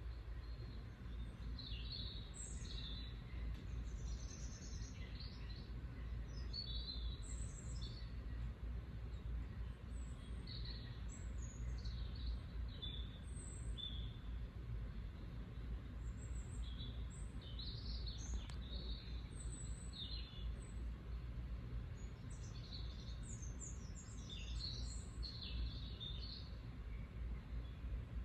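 Bird chirping: short high chirps come in irregular clusters, over a steady low rumble.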